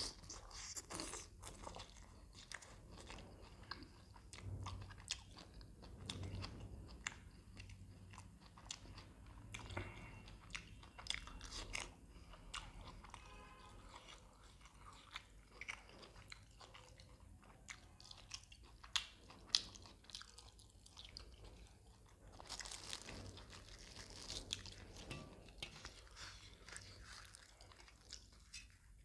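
Close-miked chewing and biting of mutton boti (goat tripe) curry eaten by hand, with irregular short clicks from the mouth throughout and a few louder ones about two-thirds of the way in.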